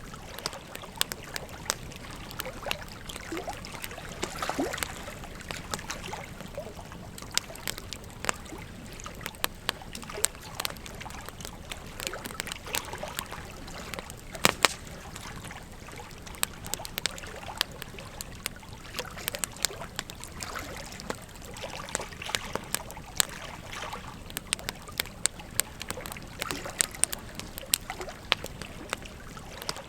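Bonfire crackling with frequent sharp, irregular pops, over the steady rush of flowing river water; one pop about halfway through is louder than the rest.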